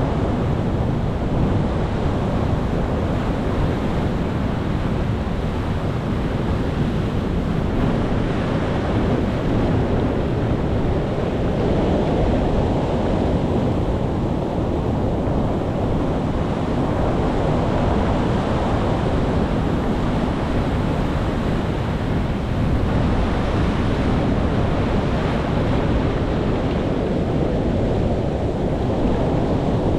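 Ocean surf: waves breaking and washing in a steady rush, heaviest in the low range, swelling and easing slowly every several seconds.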